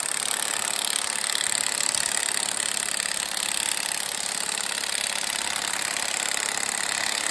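A power tool running steadily with a fast flutter, then cutting off suddenly.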